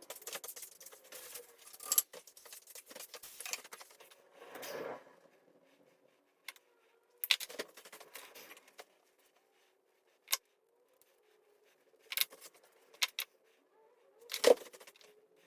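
Small hand tools clicking and snipping while working on electrical wire. There is dense clicking and scraping for the first few seconds, then separate sharp clicks every second or two, the loudest near the end.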